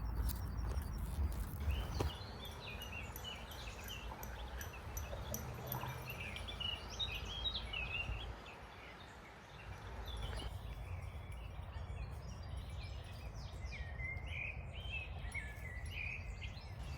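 Small birds singing, with many short chirping, warbling phrases, over a steady low rumble. The rumble drops away briefly a little past the middle.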